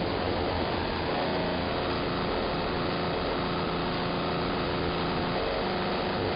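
AM radio receiver carrying broadband electrical interference: a steady hissing buzz with faint droning tones in it, spread up and down the whole AM band, which the listener takes for noise from some electromechanical device or motor.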